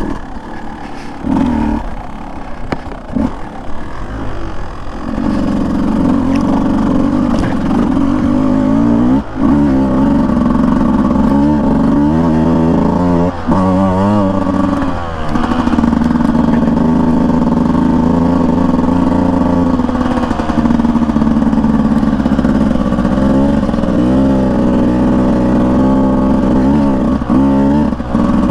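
Two-stroke Beta 200 dirt bike engine running under a rider's throttle on a trail, quieter and choppy for the first few seconds, then steady and loud. Its pitch rises and falls as the throttle is opened and closed, with brief dips off the throttle a few times.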